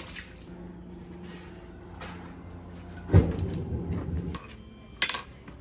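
Coffee-making sounds: a small appliance hums steadily and stops a little over four seconds in. A click comes about two seconds in, a heavy clunk a second later, and a sharp knock near the end, like cups and a cupboard being handled.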